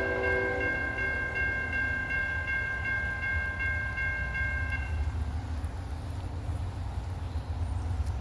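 Locomotive air horn sounding one long chord that cuts off about five seconds in, over a steady low rumble.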